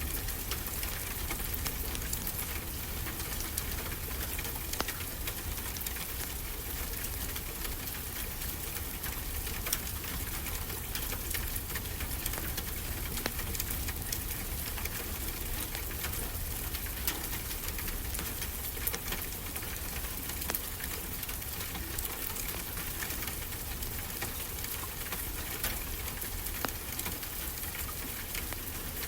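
Steady wash of ocean waves, a constant hiss over a low rumble, with a wood fire crackling through it in many small sharp pops.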